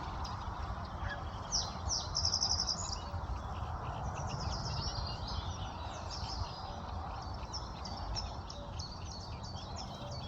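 Small birds chirping and calling in many short high notes, with a fast trill about two seconds in, over a steady low rumble.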